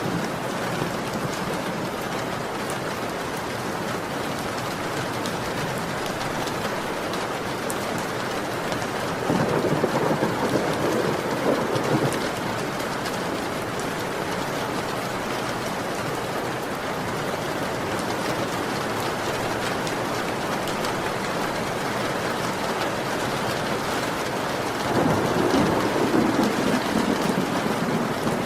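Heavy rain falling steadily, with two rolls of thunder lasting a few seconds each, one about nine seconds in and one near the end.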